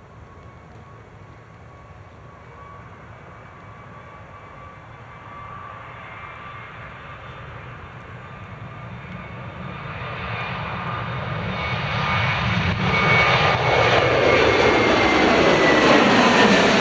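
Jet airliner's engines growing steadily louder as the aircraft approaches, a rumble under a high whine. Near the end, as the aircraft passes, the whine starts to drop in pitch.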